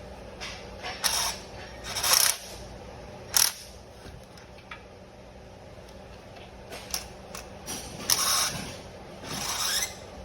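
Hand tools working on a spark plug: a few separate short metallic clicks and knocks, then two longer scraping, rattling sounds near the end.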